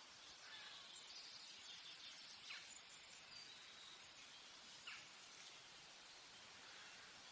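Faint forest ambience: a steady soft hiss with scattered distant bird chirps, and two short down-slurred bird calls about two seconds apart.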